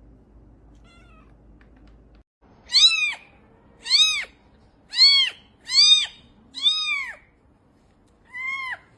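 A cat meowing six times: short, high calls that rise and fall in pitch, about a second apart, the last one after a longer pause.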